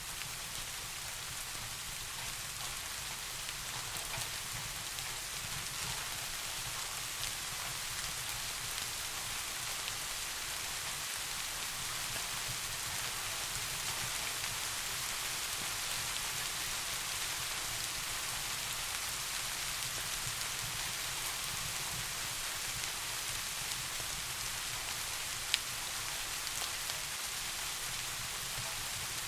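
Steady rain falling, an even hiss scattered with faint drop ticks, with one sharper click about three-quarters of the way through.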